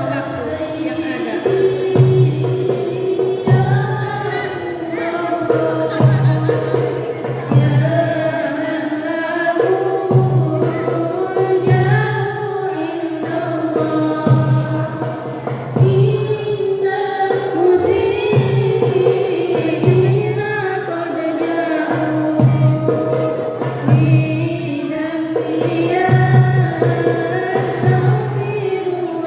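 Sholawat, an Islamic devotional song in praise of the Prophet, sung with melodic, drawn-out vocal lines over a steady beat of hand drums.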